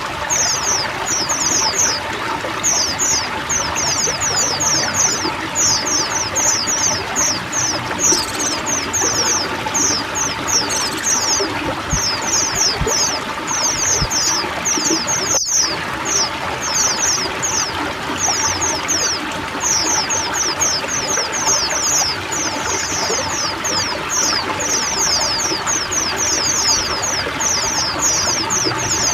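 A flock of white-eyes (pleci) chirping in rapid, continuous series of short, high, falling notes, over steady running and trickling water. Both cut out for a split second about halfway through.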